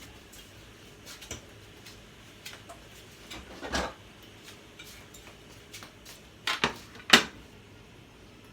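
Kitchen dishes and utensils clattering: scattered clinks and knocks, a pair at about six and a half seconds, and the loudest one just after seven seconds.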